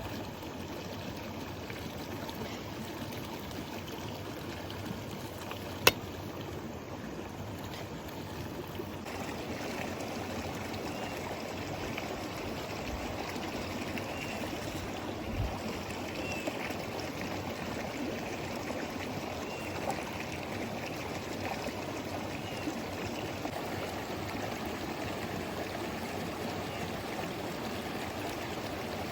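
Steady rushing of a flowing stream, with one sharp click about six seconds in and the water a little louder from about nine seconds on.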